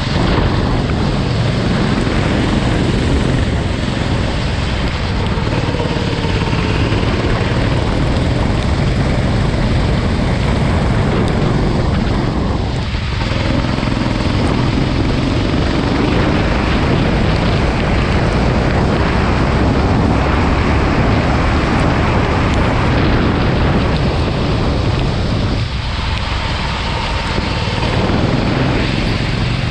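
Go-kart engine running at speed, under heavy wind noise on the microphone. The engine note drops briefly twice, about 13 and 26 seconds in, then climbs again.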